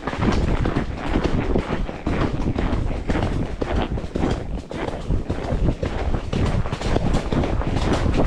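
Wind buffeting the microphone of a body-worn POV camera: a steady, rumbling rush with irregular gusty pulses.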